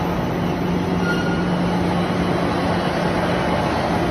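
Briquette press running: a steady machine noise with a constant low hum.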